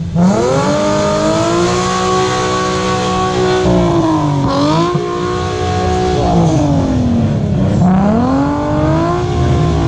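Sports car engine revved hard through a loud aftermarket exhaust for an exhaust-sound contest. It climbs quickly and is held high for about two seconds. It dips briefly and rises again, then sinks slowly and climbs once more near the end.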